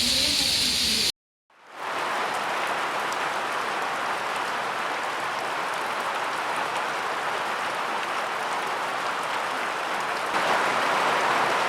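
Heavy rain pouring down in a thunderstorm: a steady, even hiss. It drops out briefly about a second in, then fades back in, and grows a little louder near the end.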